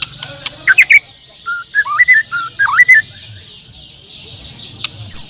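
Many songbirds singing at once in a dense high chatter. One nearby bird cuts in with loud sharp chirps, then whistled notes that rise and fall between about one and three seconds in, and gives a few falling high notes near the end.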